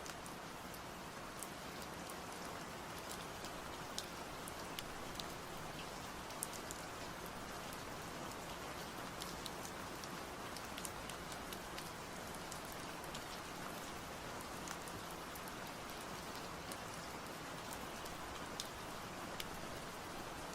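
Steady rain falling, an even hiss with single drops ticking sharply here and there.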